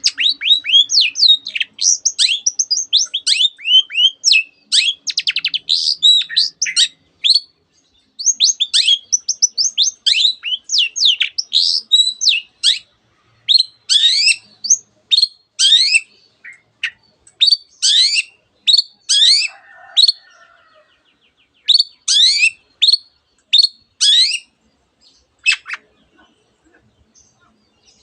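Long-tailed shrike singing a fast, dense run of chirps and sweeping whistles, its song filled with mimicked phrases of canary and other birds. After about twelve seconds the song breaks into shorter bursts with gaps between them, and it thins out near the end.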